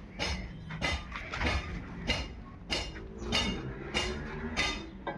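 Old 20 HP stationary diesel engine running slowly, with an even, sharp knock about one and a half times a second over a steady low hum.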